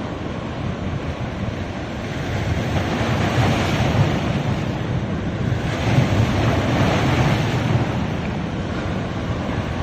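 Sea waves breaking on a beach, the surf rushing in and swelling twice, about two and a half seconds in and again around six seconds.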